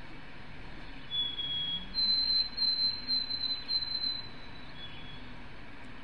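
Recorded white-throated sparrow song played back through laptop speakers: clear whistled notes. A lower note comes about a second in, then a higher note broken into a quick run of short repeated pieces, then a faint lower note near the end.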